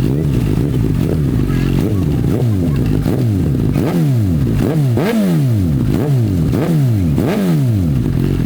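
Suzuki GSX-S1000 inline-four through a Yoshimura R77 exhaust, blipped from idle over and over: about a dozen quick revs, each climbing and dropping back, then it settles to a steady idle.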